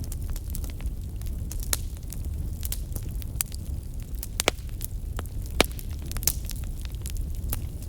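Wood fire burning in a fireplace: irregular crackles and pops of burning wood over a steady low rumble of the flames, with a couple of louder pops about halfway through.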